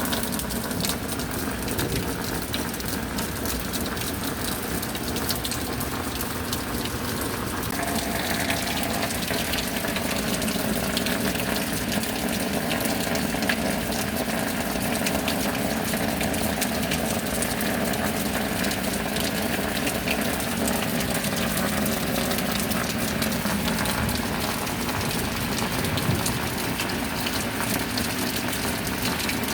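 Steady rain, a dense even hiss that grows brighter and heavier about eight seconds in.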